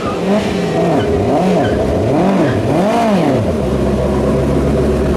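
A car engine is blipped several times, the revs rising and falling about four times in quick succession, then settling into a steady idle about three and a half seconds in.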